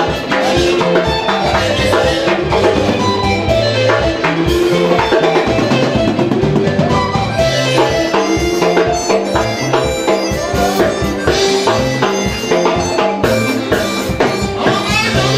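Live band music with drum kit and percussion keeping a steady beat under pitched instruments.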